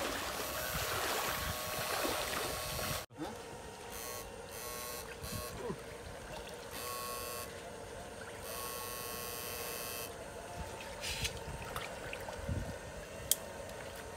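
Electrofishing shocker buzzing in several on-and-off spells of about a second each, over trickling water.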